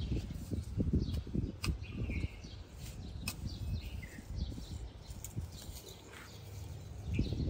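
Outdoor birds chirping in short scattered calls over a low, uneven rumble on the microphone, with a couple of sharp clicks.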